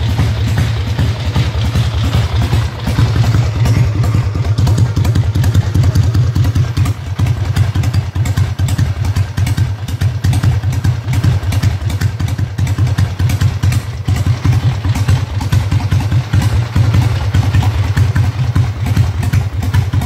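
Harley-Davidson Ironhead V-twin motorcycle engine running steadily through its exhaust, a fast, even beat of pulses.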